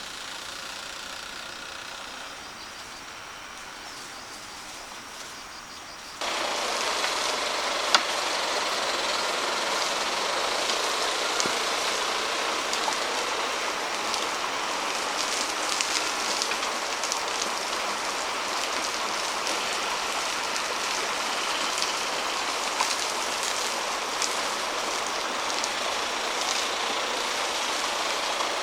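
A steady rumbling, grinding noise sprinkled with small clicks that starts abruptly about six seconds in, plausibly a hand-turned wooden rice mill grinding rice.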